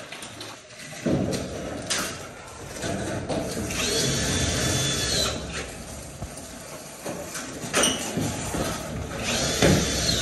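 Handheld power tool running in two short bursts, each a second or so with a steady high whine, with knocks and clatter of work between them.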